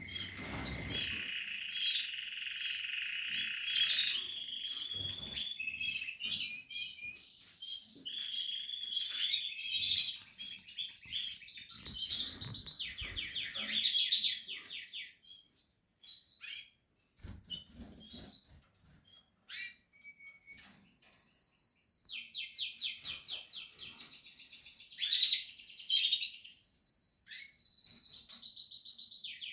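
Portuguese harlequin canary singing: long rolling trills and chirps, with a near pause a little past halfway, then fast, higher trills.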